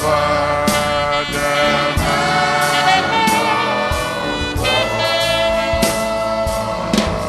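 Gospel worship music: several voices singing together over instrumental backing with a steady beat.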